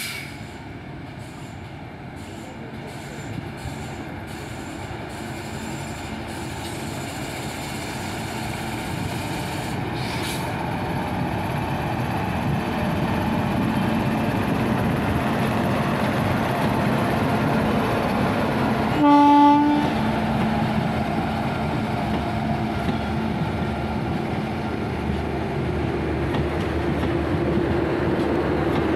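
Passenger express hauled by an Indian Railways WAP-7 electric locomotive passing close by. Its running noise grows steadily louder as the train approaches and the coaches run past. About two-thirds of the way through there is one short train-horn blast, the loudest sound.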